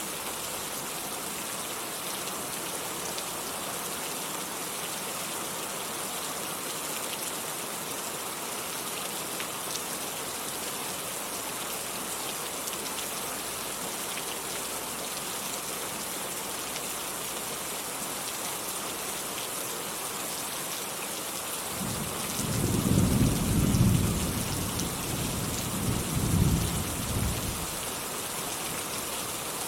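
Steady rainfall hissing throughout, with a rolling rumble of thunder starting about 22 seconds in, swelling twice and fading out about six seconds later.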